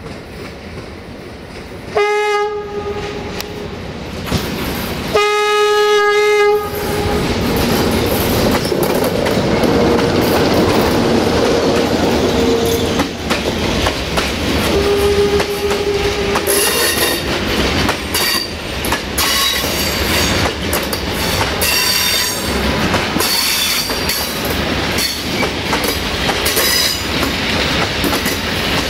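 LDE2100 (060-DA) diesel-electric locomotive sounding its horn in two long blasts, then its Sulzer diesel engine running loud as it passes close by, with a short third horn note partway through. Freight hopper wagons follow, wheels clicking over the rail joints and squealing on the curve.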